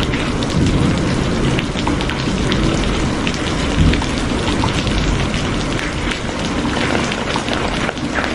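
Steady rain falling, with many individual drops ticking close by over a constant hiss and a low rumble underneath.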